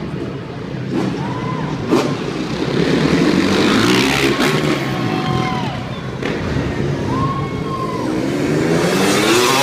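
Motocross dirt bike engines revving, their pitch rising and falling, with a climbing rev near the end.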